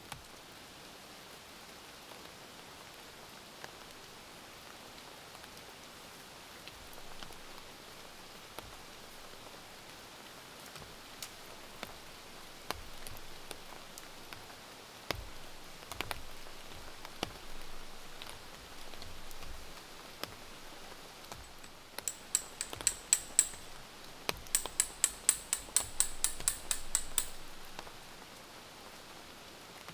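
Rain falling steadily, with scattered light knocks and clicks. Past the middle come two quick runs of sharp, high clicks, about five a second, the first lasting a second and a half and the second nearly three seconds.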